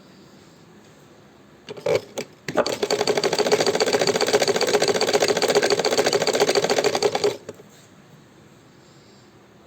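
Hand-cranked sewing machine stitching. A couple of clacks as it is set going, then about five seconds of steady, rapid, rhythmic clatter from the needle mechanism, which stops abruptly.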